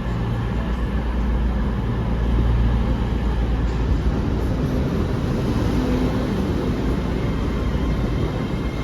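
Steady low rumble of a train at a station platform, with faint steady whining tones above it.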